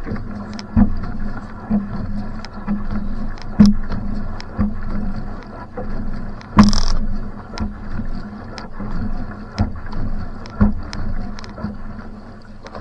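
Va'a outrigger canoe paddled hard, one stroke about every second, each marked by a sharp knock or splash of the paddle at the catch. Underneath runs a steady low hum with the rush of water along the hull.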